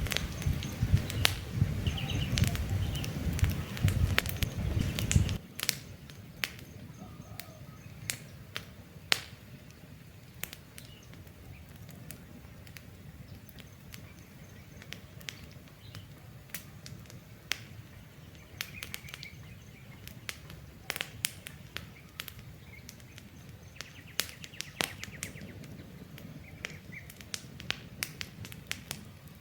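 Campfire crackling, with irregular sharp pops of burning wood, and birds chirping now and then in the background. A low rumble fills the first five seconds or so and cuts off suddenly.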